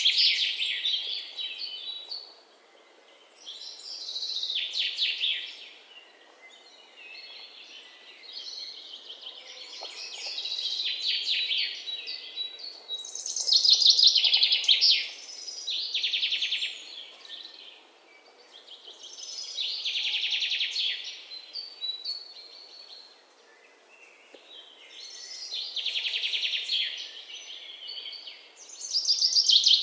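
Songbird singing: phrases of rapid, high chirps a second or two long, repeating every two to three seconds with short pauses between.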